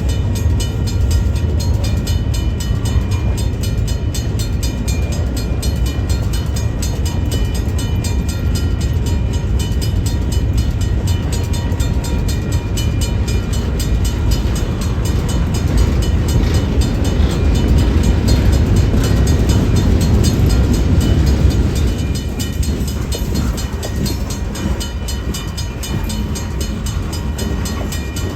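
Train rolling past: a steady, heavy rumble of wheels on rail with a fast, even clatter. It swells a little about two-thirds of the way through, then eases off.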